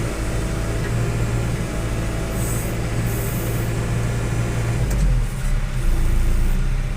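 Tractor engine running steadily, its note changing about five seconds in, with a short hiss a little before the middle.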